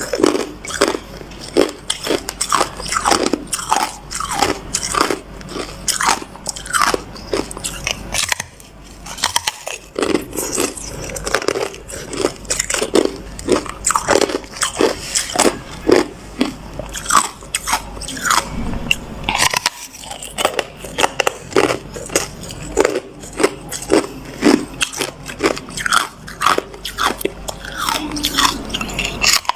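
Hard ice being bitten and chewed close to the microphone: rapid, irregular crunching with a couple of short pauses.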